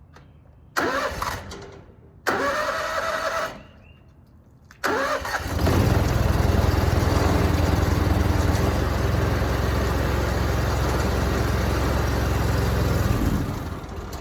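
A gasoline engine, most likely the pressure washer's, being started cold. It fires briefly and dies twice, catches on the third try about five seconds in and runs steadily, then drops lower near the end.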